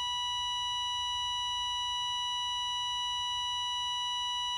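A steady, unbroken 1 kHz censor-style beep tone held at one pitch, covering the cut-off end of a sentence.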